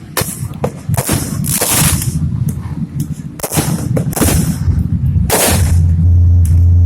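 Fireworks going off: a string of sharp bangs at uneven intervals, some trailing into a longer hiss. A loud, steady low rumble sets in about two-thirds of the way through.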